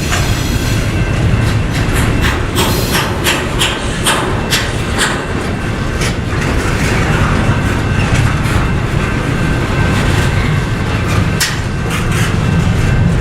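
Norfolk Southern intermodal freight train's cars rolling past. A steady low rumble carries irregular sharp clacks of wheels over rail joints, thickest in the first few seconds and again near the end.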